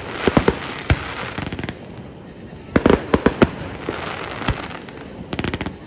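Aerial fireworks going off: clusters of sharp bangs, with crackling between them.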